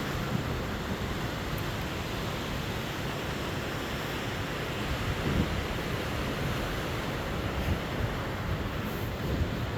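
Strong wind blowing steadily, rumbling on the microphone.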